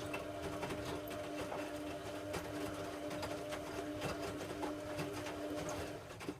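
Hoover Logic A3790 washing machine running its wash: the drum motor hums steadily under light clicks and swishes from the turning load, then stops abruptly near the end as the drum comes to rest.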